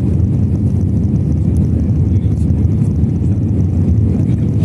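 Steady low rumble inside the cabin of an Airbus A321 in flight, the engines and airflow heard through the fuselage.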